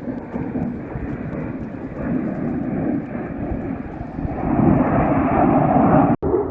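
Airplane flying past, a steady engine roar that grows louder about four and a half seconds in, then breaks off abruptly near the end.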